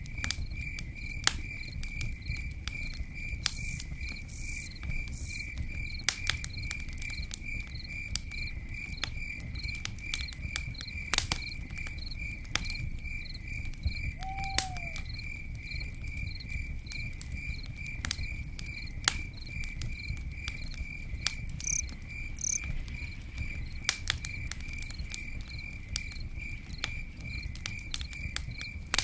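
Campfire crackling with scattered sharp pops, one louder crack about a third of the way through, over a steady low rumble. A cricket chirps steadily throughout, about twice a second.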